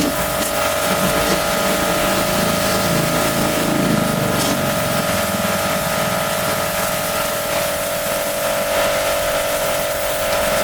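High-pressure washer running steadily: a constant motor-pump hum under the hiss of the spray.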